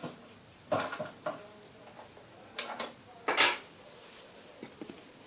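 Small hard sewing-machine accessories and their compartment clattering as they are handled: three or four short clatters, then a few light clicks near the end.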